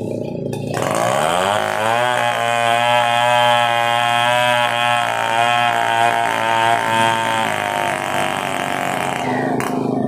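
Stihl 070 two-stroke chainsaw revving up from idle, running at high speed with a wavering pitch as it cuts through a coconut-palm trunk, then dropping back to idle near the end.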